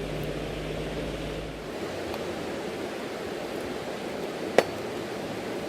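Steady rush of a flowing river, with a single sharp click about four and a half seconds in.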